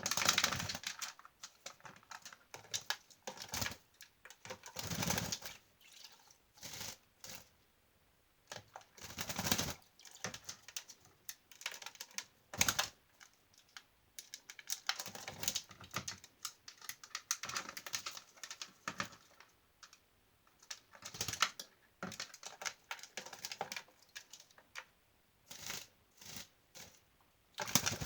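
White-bellied caique bathing in a shallow dish of water, splashing in quick spells a second or two long with short quiet pauses between them.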